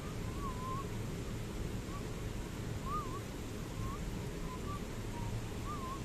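A bird calling: short wavering whistles, one roughly every second at uneven spacing, over a steady low background noise.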